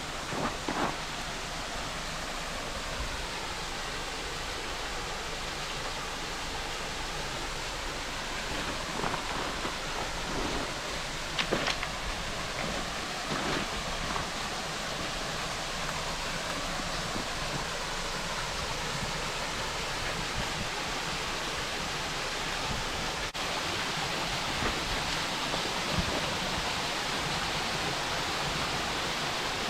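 Waterfall and mountain stream water rushing in a steady hiss, with a few short knocks in the first half. About two-thirds in it becomes a little louder and brighter.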